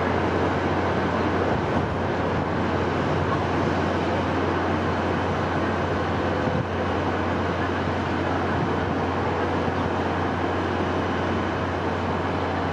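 Steady wind noise: a constant, even rush with a low rumble underneath, unchanging throughout.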